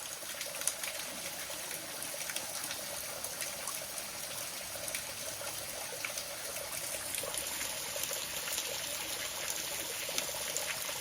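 Small Ozark creek water trickling and splashing over rocks, a steady rush of water.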